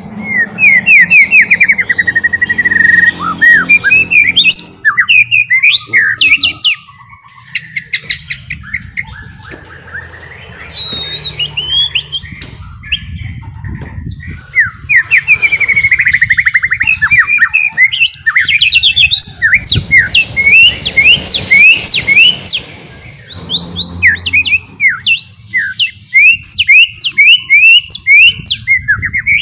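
White-rumped shama (murai batu) singing: fast runs of short, sharply down-slurred whistles mixed with longer whistled phrases, the rapid 'ngeriwik' chatter, broken by brief pauses.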